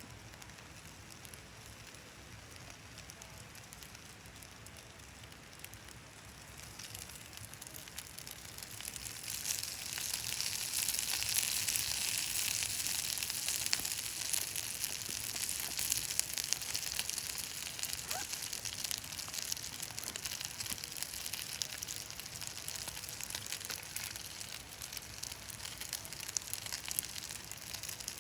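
Wood fire crackling and hissing in a Picogrill fire pit, a dense run of small pops over a steady hiss that grows louder about a quarter of the way in.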